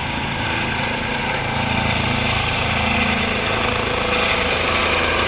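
Twin-engine medical helicopter running on the ground at high power just before lift-off: a steady low rotor beat under turbine noise and a thin high whine, growing slightly louder.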